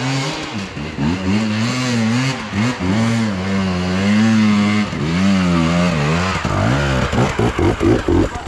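Enduro motorcycle engine running nearby, its pitch rising and falling with the throttle for several seconds, then settling into a slow, uneven idle near the end.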